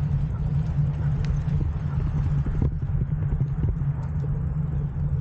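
Wind rumbling on the microphone of a moving bicycle, with tyres rolling and scattered small knocks and rattles from the bike.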